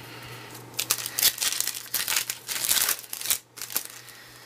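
Foil baseball card pack wrapper being torn open and crinkled by hand, a dense run of irregular crackling that starts about a second in and dies away near the end.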